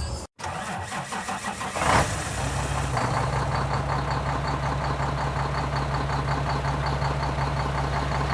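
Peterbilt 386's Cummins ISX diesel engine cranking, catching with a surge about two seconds in, then idling steadily.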